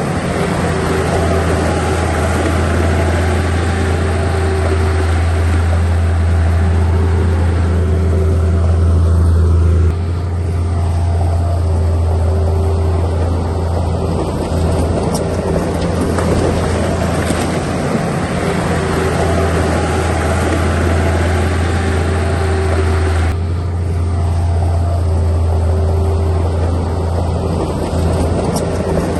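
Heavy diesel engine of earthmoving equipment running steadily with a deep, constant drone. It eases off slightly about a third of the way in and shifts again later, as if changing load.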